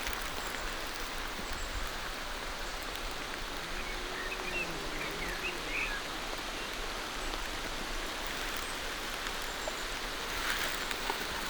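Steady rain falling through forest trees, an even hiss of water on leaves, with a few faint bird chirps about halfway through.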